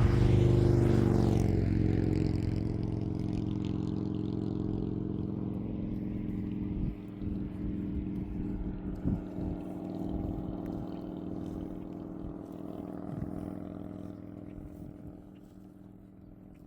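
Motor vehicle engine passing close by, loudest at the start and then fading steadily as it moves away.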